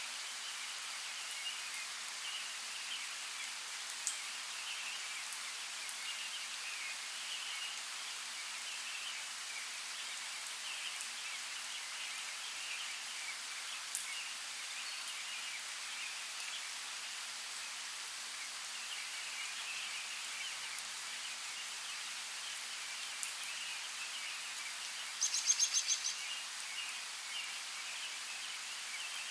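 Steady rain falling, an even hiss with no low rumble, over a constant chatter of faint high animal calls. A few sharp drip-like clicks sound through it, and about 25 seconds in comes a short rapid string of high chirps.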